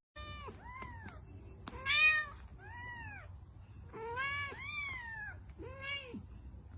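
A cat meowing repeatedly, about seven separate rising-and-falling meows, the loudest about two seconds in.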